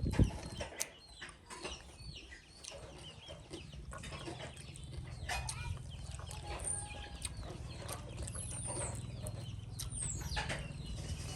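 Chickens clucking in the background, with short high calls and scattered small clicks, over a low steady hum that slowly grows louder from a few seconds in.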